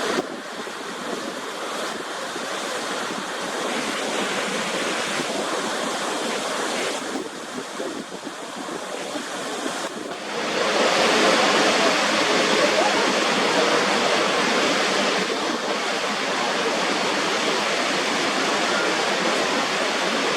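Waterfall water rushing, a steady noise of falling water with no rhythm. It changes abruptly about seven and ten seconds in, and is louder and brighter after the second change.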